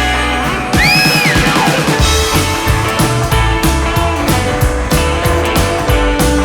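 A rock and roll band playing an instrumental break: electric guitar over a steady drum beat and bass, with a note bent up and back down about a second in.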